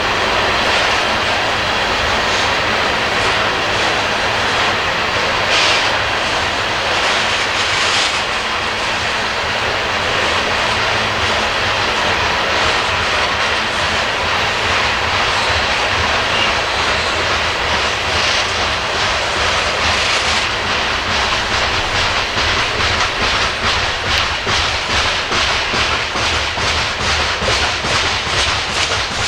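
Coal cars of a BNSF coal train rolling past with a steady rumble of wheels on rail. In the second half the clickety-clack of wheels over rail joints becomes a distinct, quick, even rhythm.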